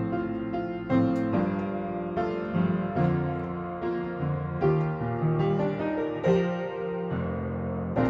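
Background music: a gentle, slow solo piano piece, with notes and chords struck about once a second.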